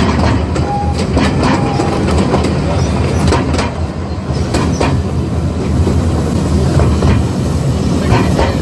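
Zoo train running along its track, heard from aboard: a steady rumble with irregular clicks and clacks of the wheels over the rail joints.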